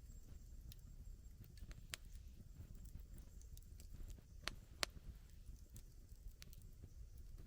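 Wood campfire crackling: sparse, irregular pops and snaps over a low, steady rumble, with two louder pops close together about halfway through.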